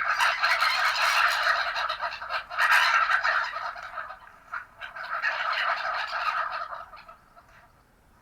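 Herring-type gulls giving distress and alarm calls, many harsh cries overlapping. They swell and ebb in waves and fade away near the end.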